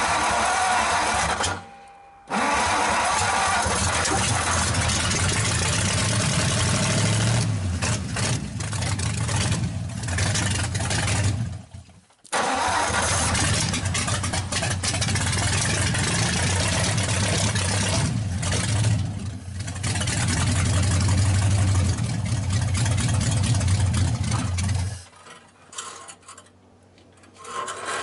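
V8 engine in a 1931 Ford hot-rod chassis running loud through open, unmuffled headers on one of its first starts, with the ignition timing still being set. The sound breaks off briefly twice and falls away near the end.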